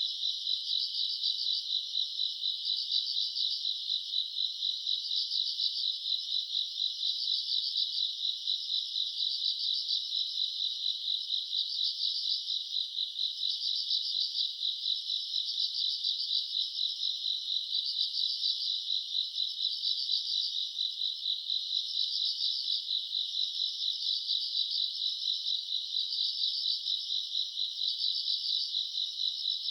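A chorus of crickets and other grass insects chirping on a summer night. It is a dense, continuous high trill that swells and dips about once a second.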